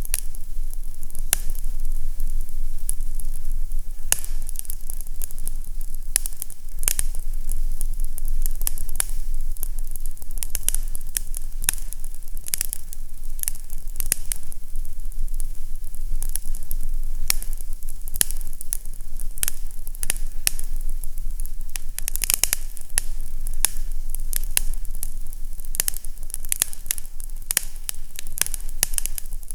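Fireplace crackling: a steady hiss of burning with frequent irregular sharp pops and snaps, over a steady low rumble.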